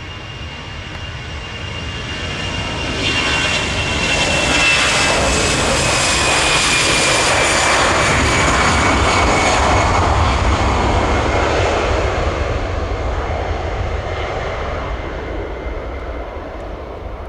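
Jet airliner taking off and passing by. Its engine roar swells over the first few seconds, stays loud through the middle, then fades away. A high fan whine slides slowly down in pitch as it goes past.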